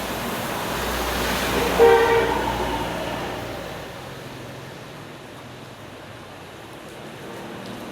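A vehicle passing close by, its noise swelling and fading, with a short horn blast at the loudest point about two seconds in.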